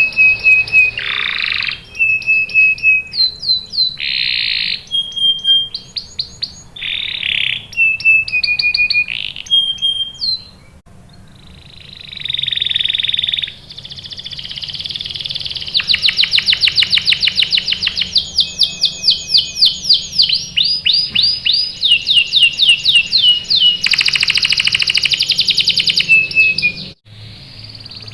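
Domestic canary singing a long, varied song of rapid trills, rolled buzzy phrases and short whistled notes, with a fast run of repeated notes in the middle; the song breaks off briefly near the end and then carries on.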